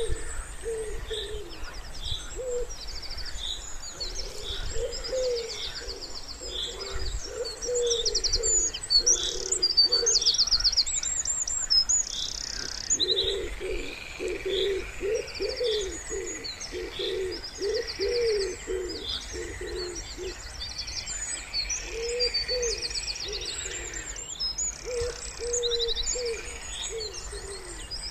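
Wood pigeons cooing in repeated low phrases that come in runs with short pauses between them. Over them, small songbirds chirp and give rapid high trills throughout.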